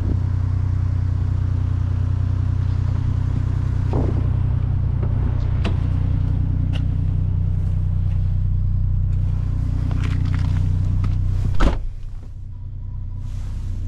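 The 2003 Chevrolet Trailblazer's 4.2-litre straight-six engine idling steadily, with scattered light clicks and knocks. About twelve seconds in there is a single loud slam, after which the engine sounds muffled.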